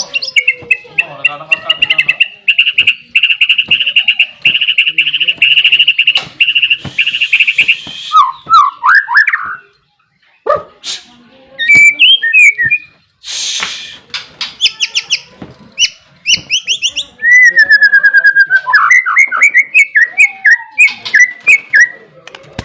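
White-rumped shama singing loudly and at length: a rapid trill held for about six seconds, then a varied run of whistled phrases, gliding notes and fast chattering notes.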